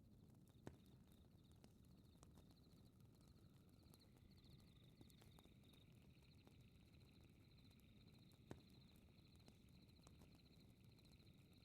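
Faint fireplace crackling over a low rumble, with scattered small clicks and two louder pops, one near the start and one about two-thirds through. Night insects chirp in quick high pulses throughout.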